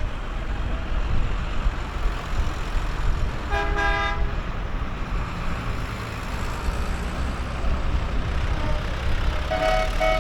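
Procession vehicles' engines rumbling low as they pass, with a horn sounding a short blast about four seconds in and again near the end.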